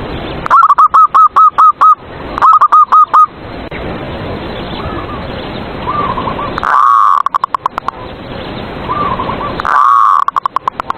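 Zebra doves (perkutut) cooing. One loud bird gives two quick runs of short staccato coo notes in the first few seconds, then twice a longer swelling coo that breaks into a fast trailing rattle of notes. Other doves coo more faintly in the background.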